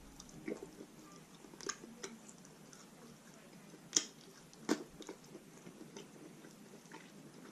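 Close-miked chewing and mouth sounds of someone eating roast chicken, with soft wet squishes and scattered sharp clicks, the loudest about four seconds in and another shortly after.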